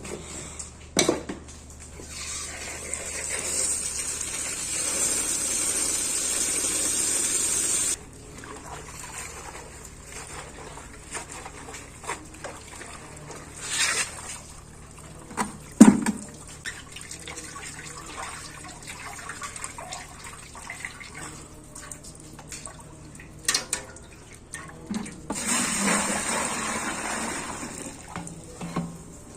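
Water running into a bowl or basin for about six seconds, then cutting off suddenly, while bitter leaf is washed by hand. In between come scattered splashes and knocks as the leaves are squeezed and rubbed in the water, and water runs again near the end.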